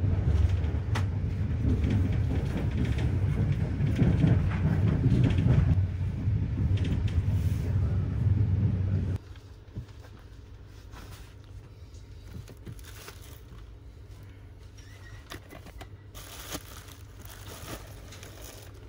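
Low, steady rumble of a sleeper train running, heard inside a couchette compartment, cutting off suddenly about nine seconds in. A much quieter stretch follows with scattered clicks and crinkles of plastic-wrapped bedding being handled.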